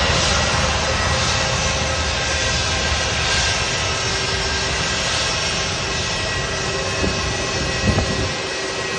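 Jet airliner engines running steadily, a dense noise with a steady high whine through it. Two small knocks come near the end.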